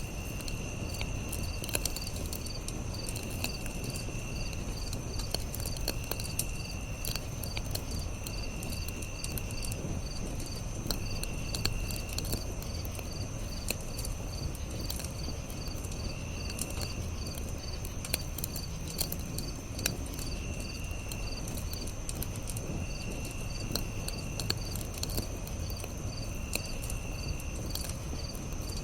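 Campfire burning softly with scattered sharp crackles and pops, under a steady chorus of night insects. The insects give an even chirp about three times a second, a constant high whine, and short trills of about a second that recur every couple of seconds.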